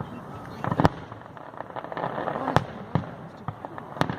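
Fireworks display: aerial shells bursting with sharp bangs, the loudest about a second in, another midway and another near the end, with smaller pops and crackle in between.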